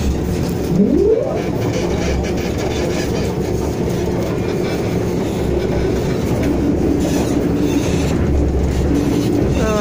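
MTR M-Train running, heard from inside the carriage: a steady rumble and hum of wheels on rail and motors, with a brief rising whine about a second in.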